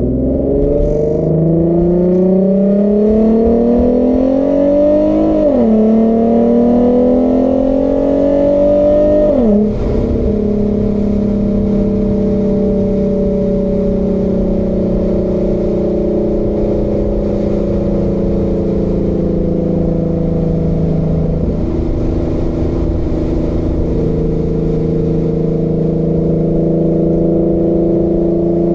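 Infiniti Q50 exhaust, fitted with an ARK aftermarket system, accelerating through two upshifts: the engine note climbs, drops sharply about five and a half seconds in, climbs again and drops at about nine and a half seconds. It then settles into a steady cruise.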